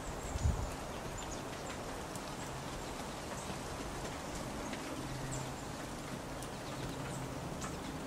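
Scattered short, high chirps from small birds such as finches over a steady outdoor hiss, with a low thump about half a second in and a faint low hum in the second half.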